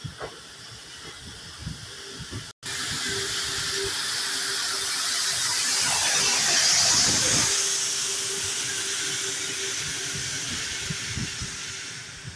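A moving train on the rails: a steady rushing hiss that swells to its loudest about halfway through and then eases, with a faint steady hum underneath.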